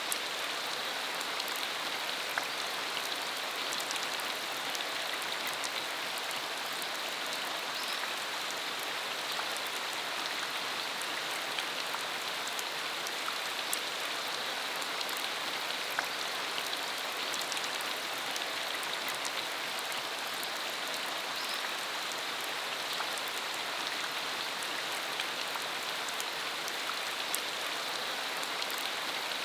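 Steady rain falling on a dirt country road, a constant hiss with many scattered individual drops ticking.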